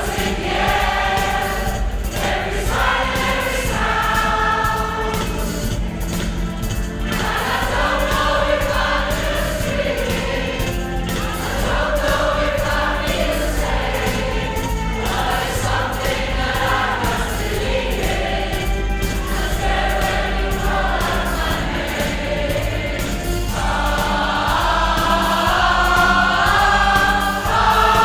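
Choir singing live in several-part harmony, the chords moving every second or two.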